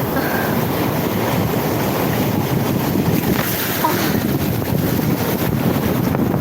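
Wind buffeting the microphone in a steady rumble, with sea surf behind it.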